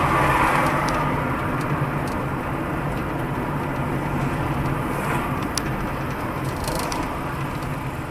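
Steady engine hum and road noise of a car driving along.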